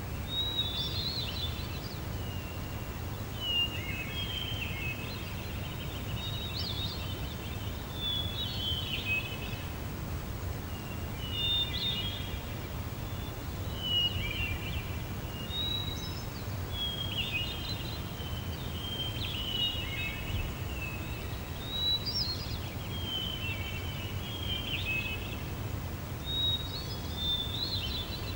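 Songbirds chirping in short, quick phrases that repeat every second or two, over a steady low rumble.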